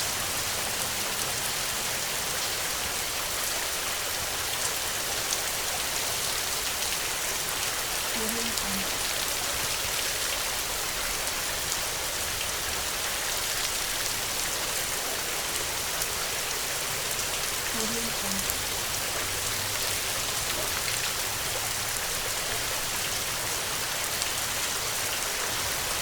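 Heavy rain falling steadily, a dense even hiss of many drops striking a surface.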